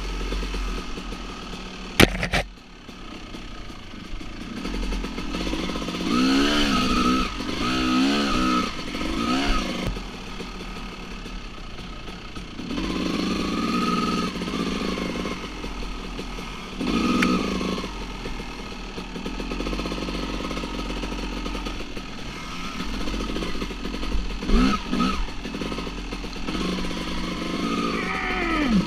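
Two-stroke dirt bike engines revving in repeated bursts, pitch rising and falling with the throttle, between stretches of lower running. One sharp knock about two seconds in.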